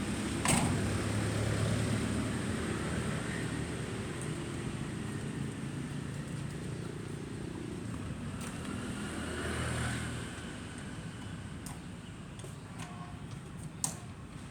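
A motor vehicle engine running with a steady low rumble. It is louder for the first ten seconds, then drops off. A few sharp knocks come through, one about half a second in and a few more near the end.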